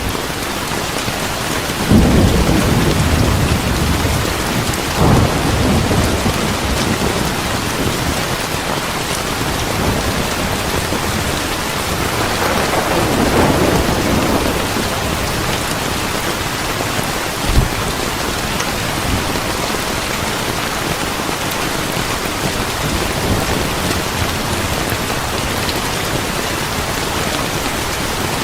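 Steady heavy rain with thunder: low rumbles about two and five seconds in, a longer roll near the middle, and a single sharp crack a little after that.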